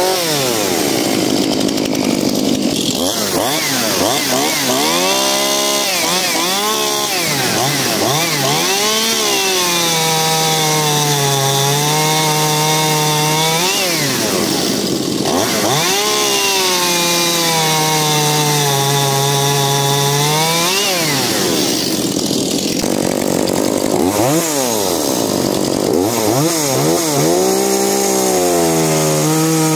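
Two-stroke chainsaw cutting wood at high revs, its engine pitch sagging and climbing again repeatedly as the chain loads up and frees, with a few deep drops and quick revs back up.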